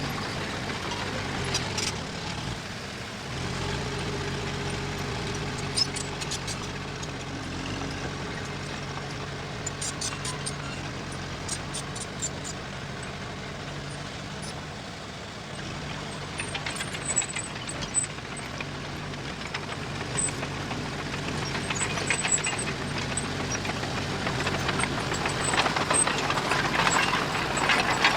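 Diesel engine of earthmoving machinery running steadily, with scattered metallic clanks and high squeaks. A rougher, louder noise builds over the last several seconds.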